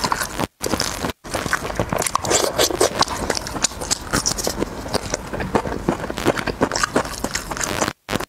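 Close-miked eating sounds of a person chewing chicken drumstick meat: dense wet smacks and clicks of the mouth and lips, with tearing and handling of the meat in gloved fingers. The sound cuts out completely for an instant twice near the start and once near the end.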